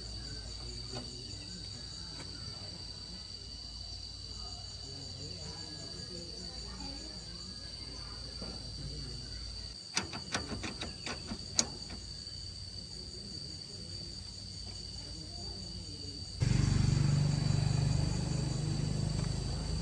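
Steady insect chorus, a constant high buzz with a pulsing trill. A quick run of about half a dozen sharp clicks or taps comes about halfway through, and a louder low rumbling sound starts abruptly near the end.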